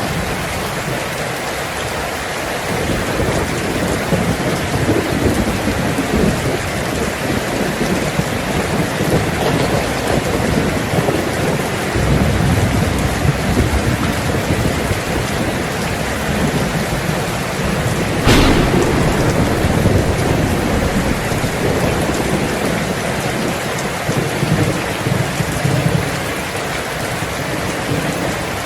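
Heavy rain falling steadily on a tin roof, with rolling thunder rumbling from a few seconds in and one sharp thunderclap about two-thirds of the way through.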